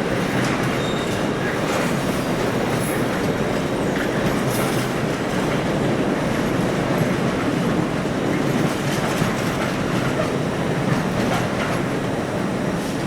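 A train moving through the station, its wheels running over the rails with a steady noise that holds level throughout.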